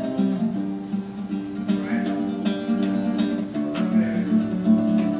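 Acoustic guitar picking a steady minor-key accompaniment pattern in a short instrumental passage between sung verses, with notes plucked one after another.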